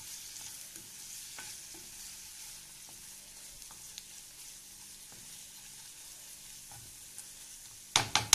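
Sliced onions sizzling in hot oil in a nonstick frying pan as they are stirred with a wooden spatula. Near the end come a few sharp knocks, the loudest sounds here.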